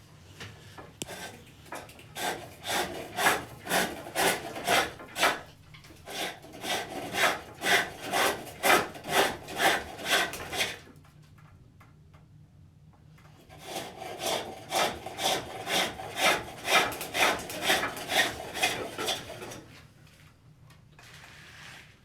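Hook tool cutting the spinning wooden workpiece on a pole lathe: a rhythmic scraping shear on each stroke, about two a second, in two runs with a pause of a couple of seconds in the middle.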